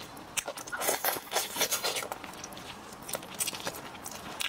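Close-miked chewing and biting of steamed chicken, with irregular wet mouth clicks and smacks.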